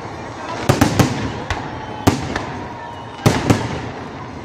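Fireworks display: aerial shells bursting in a quick, uneven series of sharp bangs, clustered about a second in, around two seconds and again near three and a half seconds, with a steady crackle between them.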